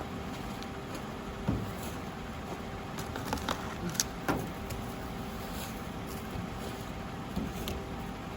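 A car running steadily, with a few short knocks and clicks over it.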